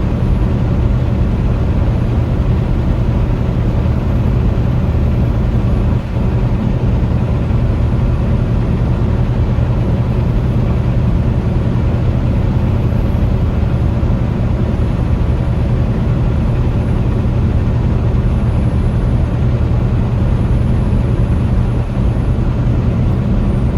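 Steady low engine and road drone heard inside a semi-truck's cab while driving, unchanging throughout.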